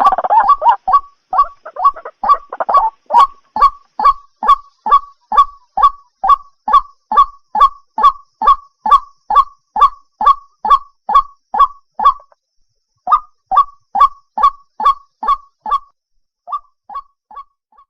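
White-breasted waterhen calling: a fast, even run of loud 'kwak' notes, about two to three a second, with a short break past the middle and another near the end. It is the call used as a lure for trapping waterhens at night.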